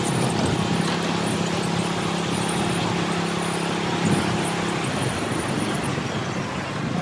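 Miniature train running: a steady engine hum over a constant rumble, with part of the hum dropping away about five seconds in.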